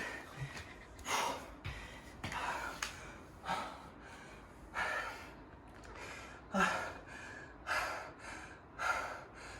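A man breathing hard and fast, about one loud breath a second: he is winded just after a set of squats.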